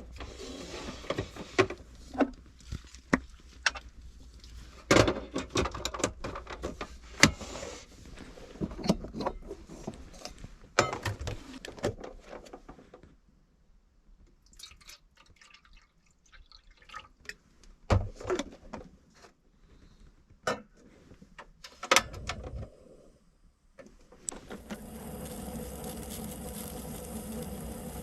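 Irregular clicks, knocks and handling noises from small objects being moved about in a confined space, with a steady hum that starts near the end.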